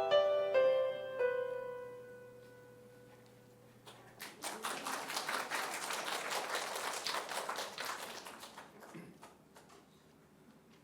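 The closing notes of an ocarina ensemble piece with keyboard accompaniment ring out and fade away. After a short pause, the audience applauds for about five seconds, and the clapping then dies down.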